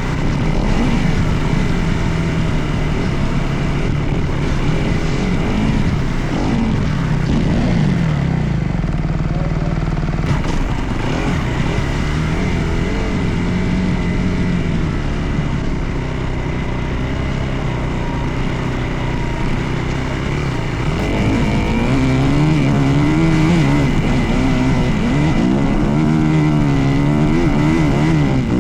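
Dirt bike engine running while being ridden, its revs rising and falling with the throttle. In the last third the revs swing up and down quickly over and over.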